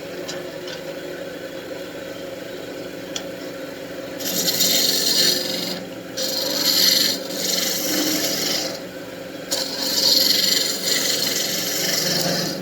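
Wood lathe running with a steady hum while a turning tool cuts into the spinning wand blank. From about four seconds in come four long passes of hissing, scraping cutting.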